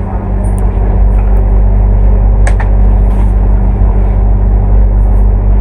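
Double-decker bus's Cummins ISL8.9 diesel engine running steadily with a low drone, with a single sharp click about two and a half seconds in.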